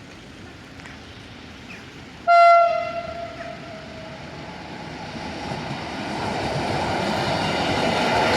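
A train sounds one short horn blast about two seconds in, then its running noise grows steadily louder as it approaches.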